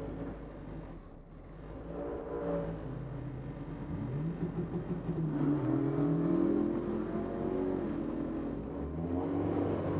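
Honda B18 four-cylinder race car engines accelerating hard, the engine note climbing in pitch about four seconds in and climbing again near eight seconds.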